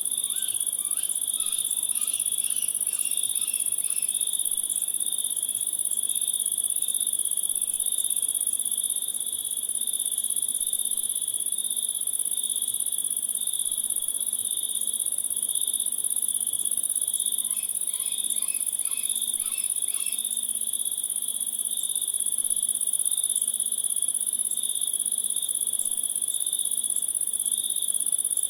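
Steady chorus of chirping insects: a high continuous trill with a lower, pulsing one under it. Short clusters of brief chirps come in near the start and again about two thirds of the way through.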